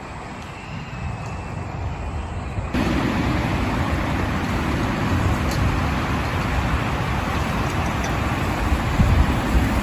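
Heavy rain falling, a dense steady hiss with a low rumble beneath it; it jumps abruptly louder about three seconds in.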